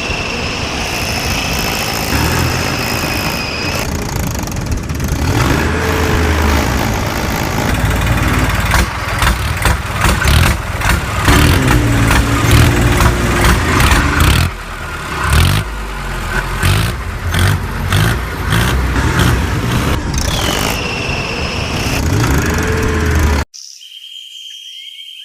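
Vehicle engine running and revving, with a falling whine near the start and again near the end. It cuts off suddenly shortly before the end, leaving a faint steady high tone.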